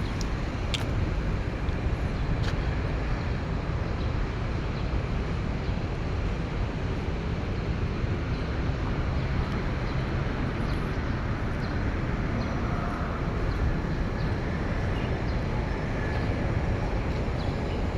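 Steady low rumble of road traffic, with a couple of faint short ticks near the start.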